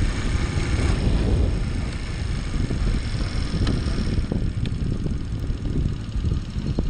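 Honda Little Cub's 49cc air-cooled four-stroke single-cylinder engine running as the scooter rides slowly, heard from the rider's seat; a little quieter in the second half.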